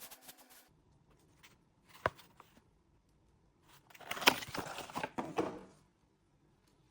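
Hand sanding on a wooden chair frame stops shortly after the start. About two seconds in there is a single knock, then near the middle about two seconds of rough rubbing mixed with clicks from handling.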